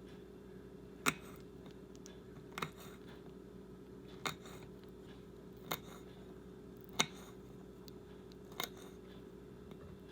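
Asparagus spears being cut into smaller pieces: six sharp cuts, about one every second and a half, over a faint steady hum.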